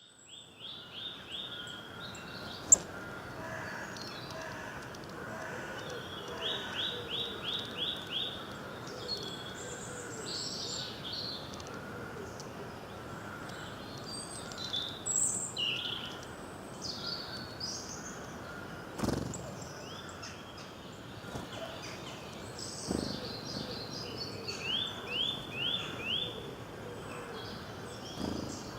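Several wild birds singing and calling. One repeats a quick run of about five evenly spaced notes several times, with other chirps and whistles in between. A single sharp click about three seconds in.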